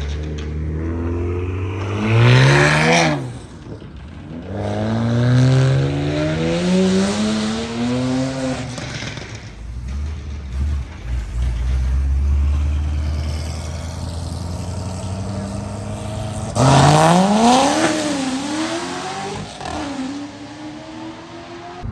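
Modified cars revving and accelerating away one after another, the engine pitch climbing and dropping with each gear change. The loudest pulls come a couple of seconds in and again about three quarters of the way through, with low idling rumble between.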